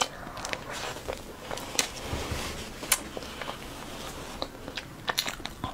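Close-miked mouth sounds of a person biting into and chewing a soft white-chocolate-coated red velvet cake snack, with scattered wet clicks and smacks.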